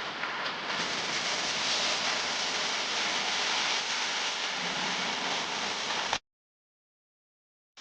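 A steady rush of noise like heavy rain or white noise, with no beat or tune, that cuts off suddenly about six seconds in, leaving dead silence.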